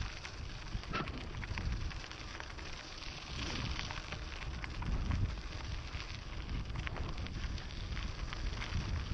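Mountain bike being ridden over a dirt trail: tyres crunching and crackling over the ground with many small clicks and rattles, over a steady low rumble of wind on the microphone.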